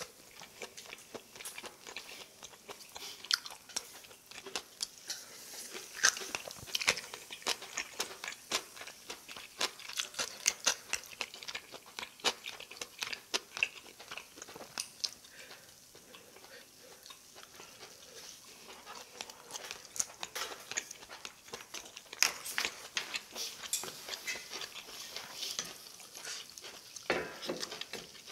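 Close-miked eating sounds: chewing grilled mushroom and scallop pieces, with many small, irregular wet mouth clicks and smacks. Near the end, a wooden spoon knocks in a pot of soybean paste stew.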